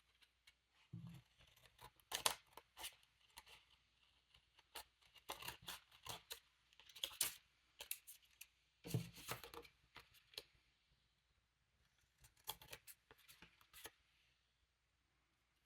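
Scissors snipping through paper, in several runs of short, sharp cuts with pauses between, and a couple of dull knocks as the paper is handled.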